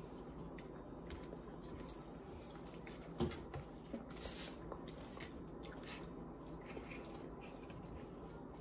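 Faint chewing and biting as a person eats chicken wings by hand, with scattered soft clicks and smacks over a steady low hiss. A slightly louder click comes about three seconds in.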